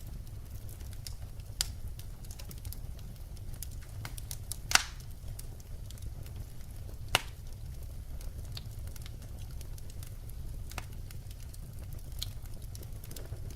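Wood fire burning: a steady low rumble with scattered crackles and sharp pops, the loudest pop a little under five seconds in and another just after seven seconds.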